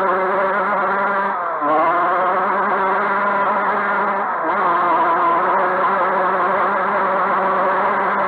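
Dirt bike engines running and revving, their pitch wavering up and down, with a short drop in revs about a second and a half in and again past four seconds.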